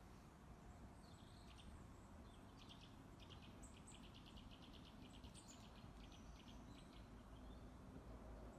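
Near silence outdoors: faint background hiss with scattered, faint high chirps and quick trills of small birds.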